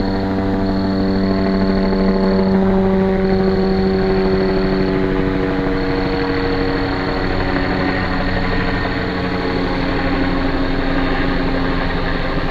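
Helicopter circling overhead: a steady engine and rotor drone whose pitch sinks slowly as it moves along its circle.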